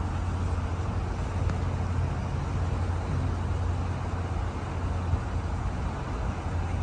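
Steady low rumble of a car on the move: road and engine noise with no distinct events.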